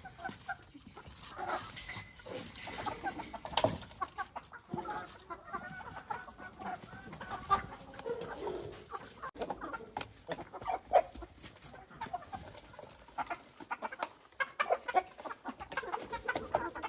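Chickens clucking, many short calls one after another, with a few sharp clicks or knocks among them; the loudest come at about 4 and 11 seconds in.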